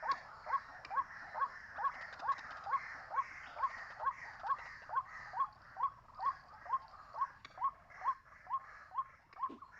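White-breasted waterhen calling: a monotonous run of short, sharply rising 'kwak' notes, about two a second and very regular.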